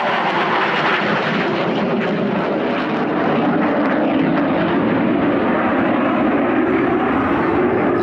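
Display aircraft in flight, its engine noise a loud, steady rush.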